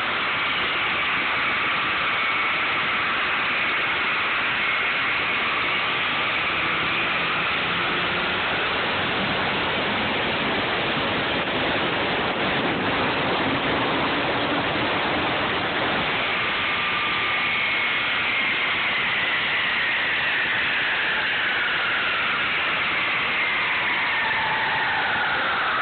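Holset-turbocharged BMW E30 running hard on a chassis dyno. It is recorded so loud that it turns into a steady, distorted hiss. About two-thirds of the way in, a whine begins falling steadily in pitch and keeps dropping to the end as the engine and rollers wind down.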